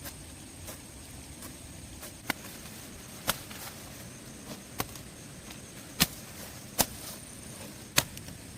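Sharp knocks at irregular intervals, about six of them, over a steady background hiss and a thin, steady high whine.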